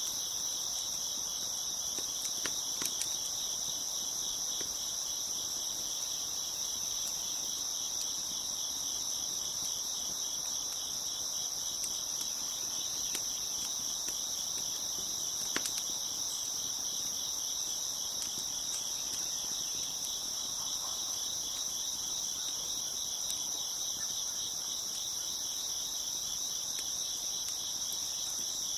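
Dense chorus of crickets chirping steadily and evenly, with a few sparse sharp pops of a crackling wood fire, the loudest about halfway through.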